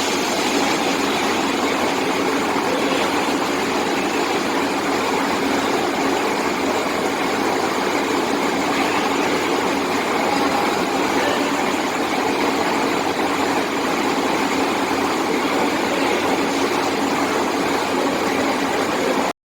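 Truck-mounted borehole drilling rig running: a steady, loud machinery noise with an even engine drone. It cuts off suddenly near the end.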